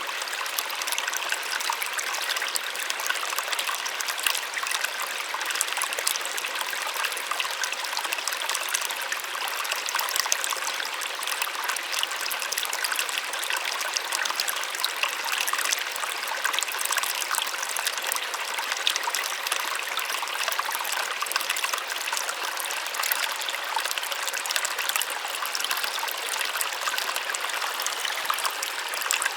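Small waterfall: a steady, gentle splashing and rushing of falling water, with more hiss than low rumble.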